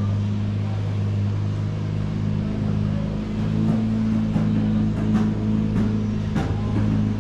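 A car engine idling steadily with a low, even hum, and a few light clicks in the second half.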